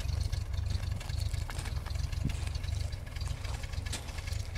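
1936 Rolls-Royce engine idling steadily, a low, even rumble from the back of the car.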